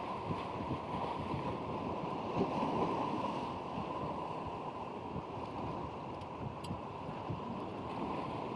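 Strong wind buffeting the microphone over surf washing onto a cobble beach, a steady rushing noise.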